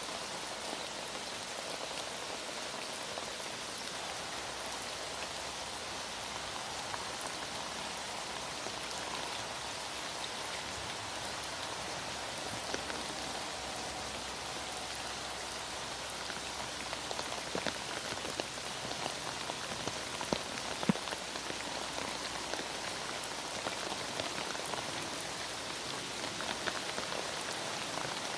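Steady heavy rain, with scattered louder drop taps in the second half.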